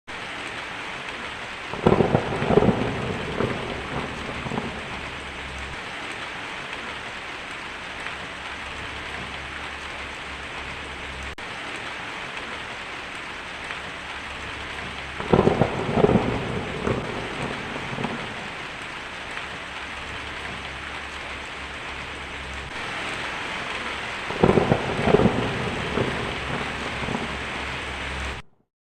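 Heavy rain drumming steadily on a tin roof, with three rolls of thunder: about two seconds in, near the middle and again near the end, each rumbling for a few seconds.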